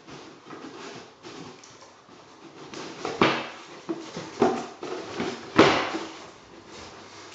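Cardboard shoebox being knocked and shoved around by a dog playing with it: scattered scrapes and knocks, with three louder thumps in the second half.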